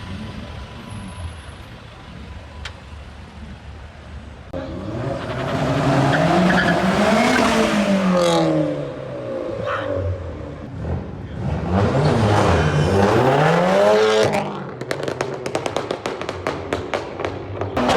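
A performance car engine revved hard several times, its pitch climbing and falling with each blip, from about four seconds in. Near the end comes a fast run of sharp crackles.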